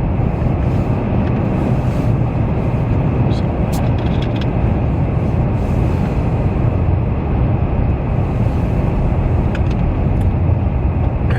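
Steady road noise inside a moving car's cabin: engine and tyres running on a snow-covered highway, heavy and low, with a few faint clicks.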